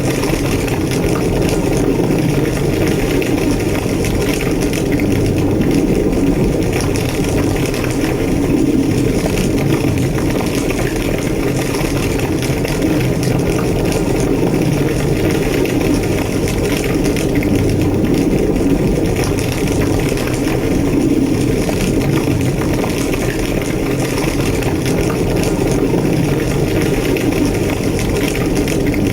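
Large structure fire burning: a steady low roar with constant crackling.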